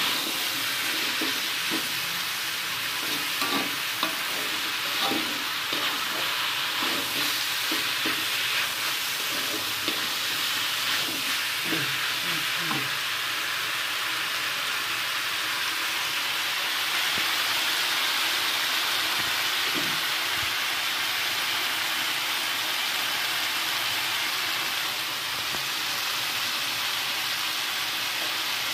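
Kikil (beef skin) with mushrooms and green chilies sizzling as it is stir-fried in a metal wok, with a metal spatula scraping and clinking against the pan over the first dozen seconds. After that the sizzling goes on steadily.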